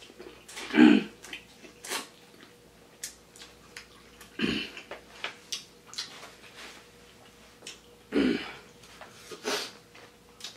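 Close-miked eating sounds: biting into and chewing a corn on the cob from a seafood boil, with many small wet mouth clicks and three short louder breaths or sighs.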